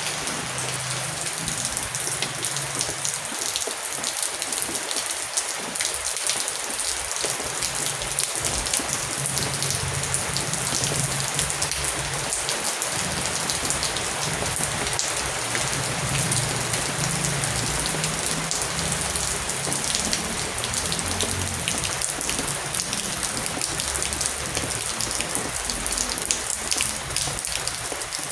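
Heavy rain falling steadily, a dense hiss of drops hitting a surface with many individual sharp drop ticks.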